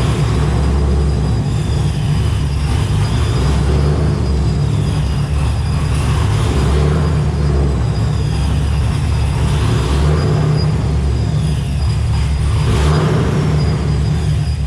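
Supercharged Nissan 240SX engine running hard, with the TorqStorm centrifugal supercharger's whine rising and falling several times as the revs climb and drop.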